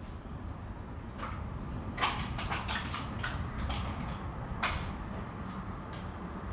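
Several sharp clicks and knocks from handling tools and parts during a scooter oil change, the loudest about two seconds in and another near five seconds, over a low steady hum.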